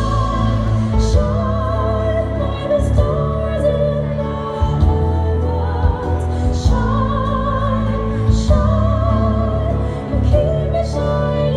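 A vocal duo singing in an operatic style with heavy vibrato, sometimes in two-part harmony, over a backing track with a strong bass line and regular cymbal hits.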